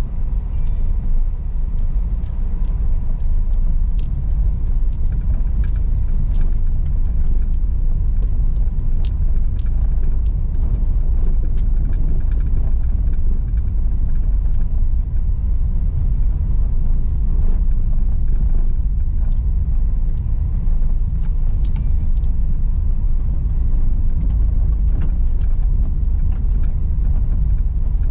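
A car driving over an unpaved rocky, sandy road: a steady low rumble of tyres and running gear, with scattered sharp clicks and ticks throughout.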